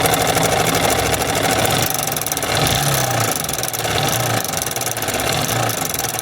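Yamaha R15M 155 cc single-cylinder engine running on the stand with a rapid, steady tick-tick clatter from the top end. The mechanic takes the noise for a slack timing chain, with the timing-chain tensioner and its broken spring as the first suspect.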